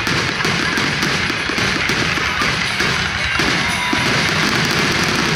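Fireworks in a rapid barrage: shells bursting and crackling overhead in a dense, unbroken run of bangs.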